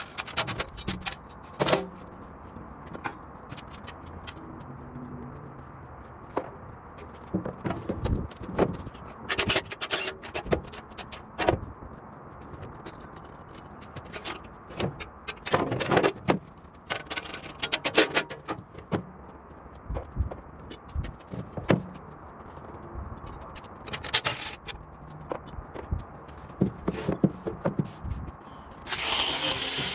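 Workshop hand-work clatter: irregular metal clinks, knocks and short scrapes of tools and parts being handled. Near the end a louder, steady, hissing machine noise starts.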